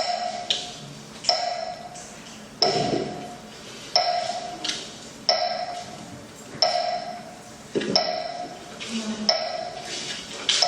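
Small ringing metal percussion struck in a slow, even beat, about once every 1.3 seconds, each strike ringing and fading, with a lighter click between strikes.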